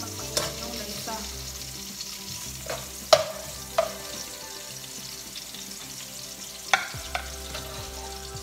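Sliced ginger frying in a nonstick wok with a steady sizzle, stirred with a metal spoon that knocks sharply against the pan several times, loudest about three seconds in.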